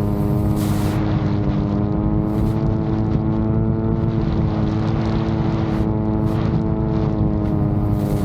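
VTOL drone's propellers humming steadily in flight, the pitch wavering slightly, over a rough low rumble.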